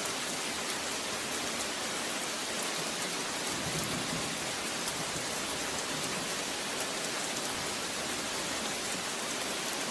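Steady rain falling, a dense, even hiss of drops with no let-up.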